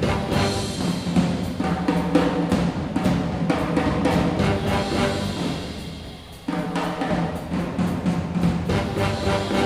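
Jazz big band playing live, with drums and percussion prominent. The band fades down about six seconds in, then comes back in together.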